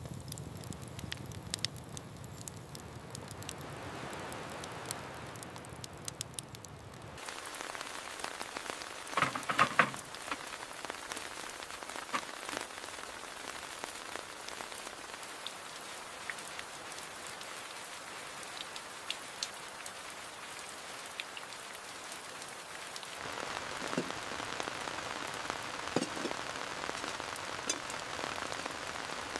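Steady rain falling, with scattered sharp drop ticks. The sound changes abruptly twice, and a short cluster of louder knocks stands out about nine to ten seconds in.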